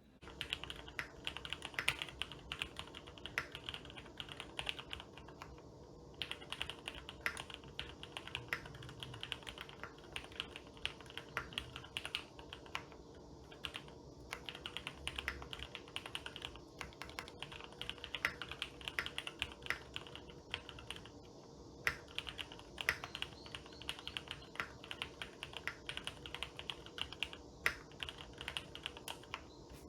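Fast typing on a custom mechanical keyboard, a steady run of key clacks broken by a few short pauses.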